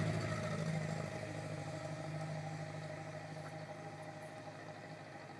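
Vehicle engine running, a steady low hum that slowly fades away.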